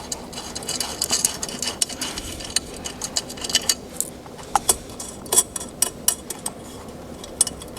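Irregular small metallic clicks and clinks of mounting nuts being undone from the threaded studs on the back of a towing mirror.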